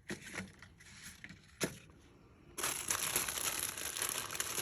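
Packaging crinkling as it is handled: a few light taps and one sharp tap, then steady crackly rustling from a little past halfway.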